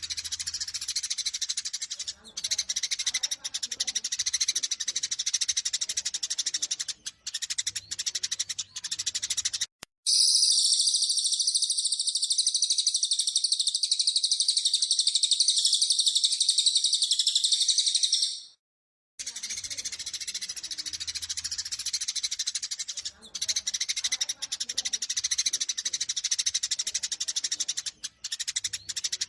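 Eurasian tree sparrows' rapid, excited fighting chatter, a dense run of chirps. About ten seconds in it gives way to a louder, higher, unbroken rapid trill lasting about eight seconds, then after a brief gap the sparrow chatter resumes.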